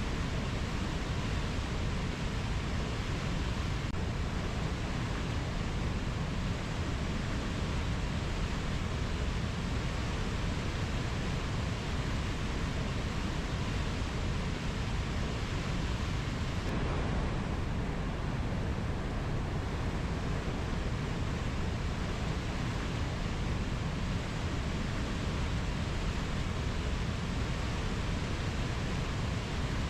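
Steady, even rushing noise with no bird or insect calls and no separate events; the hiss thins briefly a little past halfway, then returns.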